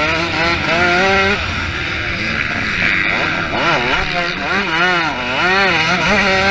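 Motocross bike engine running hard with the throttle worked on and off, its pitch rising and falling repeatedly, with several quick swells in the second half.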